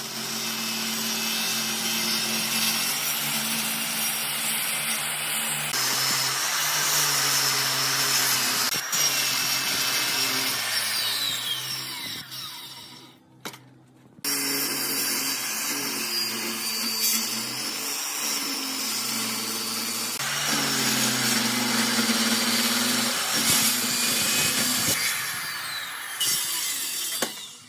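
Power tool cutting solid wood, a steady machine run with a hum in the motor. About halfway through it winds down and stops for a moment, then starts again and cuts off suddenly at the end.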